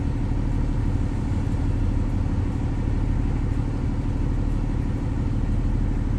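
Metrolink passenger train running, with the steady deep rumble and drone of its diesel locomotive engine.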